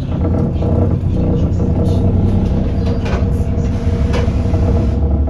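Alexander Dennis Enviro400 Trident double-decker bus running on the move, heard from on board: a steady low engine drone with a few irregular sharp knocks and rattles.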